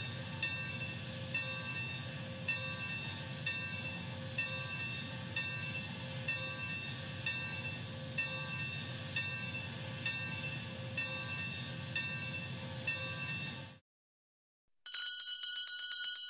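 Steam locomotive bell ringing steadily, about one stroke a second, over a low rumble: the American-style engine bell of Hank the American Engine. It stops about 14 s in. After a short pause, a small steam tram bell rings rapidly for about a second and a half near the end.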